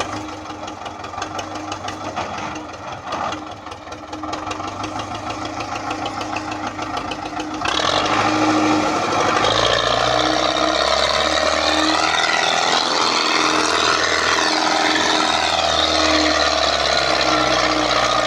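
Diesel engine of an MTZ (Belarus) tractor working in mud, with a rapid knocking firing rhythm. About eight seconds in it gets clearly louder and stays loud.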